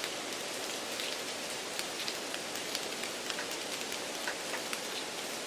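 Steady rain-like noise, an even hiss with many small scattered drop ticks, laid under the test audio as deliberate background noise.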